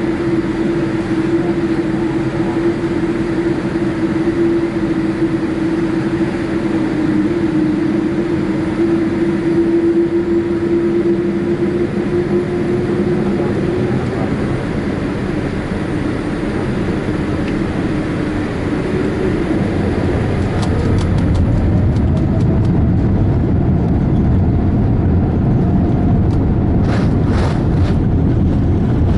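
Cabin noise inside a Boeing 787-8 Dreamliner: a steady engine hum with a held tone. About two-thirds of the way through, the engines spool up with a rising tone and a louder, deeper rumble, the start of the takeoff run, with light cabin rattles near the end.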